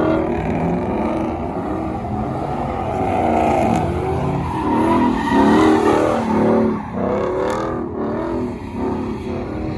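Truck engines revving hard with tires squealing, the sound of a burnout, rising and falling in pitch throughout.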